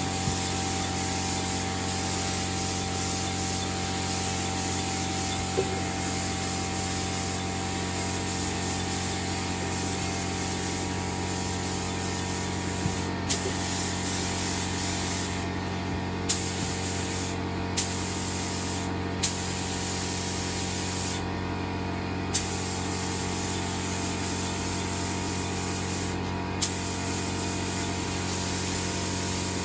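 Paint spray gun hissing steadily as it sprays clear coat mixed with metal flake, with a few short breaks and clicks where the trigger is let off and pulled again, over a steady low hum.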